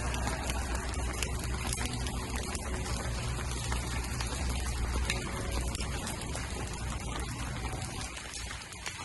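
Rain falling steadily, with many small drop ticks over an even hiss and a low rumble underneath that drops away near the end.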